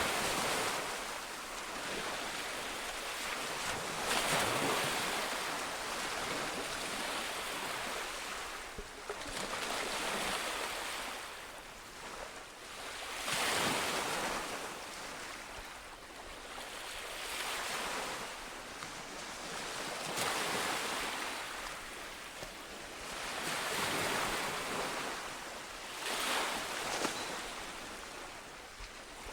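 Ocean waves breaking on a beach: a rushing surf that swells up and falls away again about every three to four seconds.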